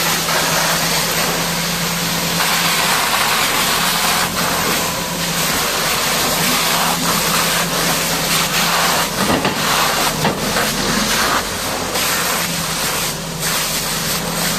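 High-pressure water jet hissing steadily as it sprays a Caterpillar D6R bulldozer, over a constant low hum.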